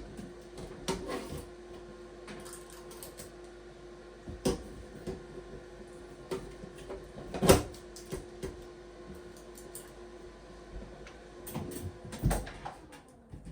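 Scattered clicks and knocks from an exhaust fan unit being handled and fitted back into place, with one loud knock about halfway through. A faint steady hum runs underneath and stops shortly before the end.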